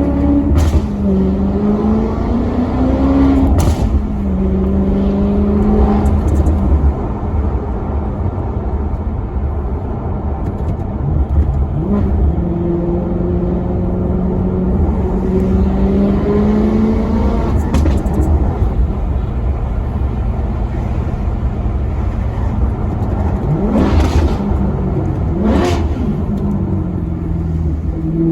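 Maserati Quattroporte Sport GT's V8 engine pulling through the gears: the pitch climbs steadily for several seconds, then drops at each gear change. Quick throttle blips sound out near the start and twice near the end, as on downshifts.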